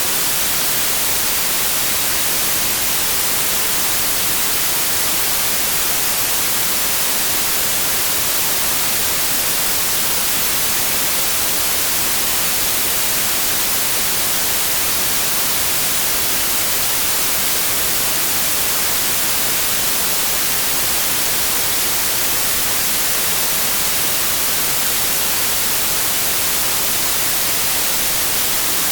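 Steady, unbroken white noise: an even full-band hiss, brightest in the high frequencies, with no change.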